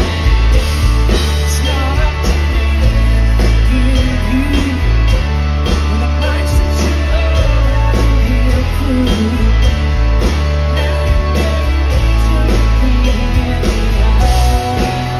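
A live rock band playing loudly: a heavy, steady bass, a drum kit keeping a beat and electric guitar, with a lead line or voice weaving over the top.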